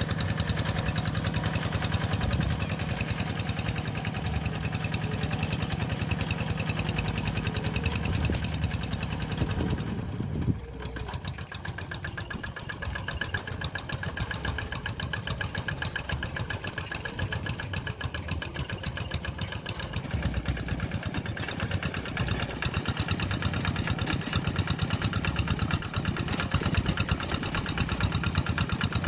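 Tractor engine running steadily with a fast, even chugging. It drops in level suddenly about ten seconds in, then gradually builds back up.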